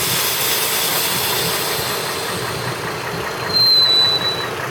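2003 TrailBlazer 4.2-litre straight-six idling with an upper-engine knock, which comes back as the PCV tube is unblocked. A hiss of vacuum is drawn into the open tube and fades over the first few seconds. A brief high whistle comes about three and a half seconds in.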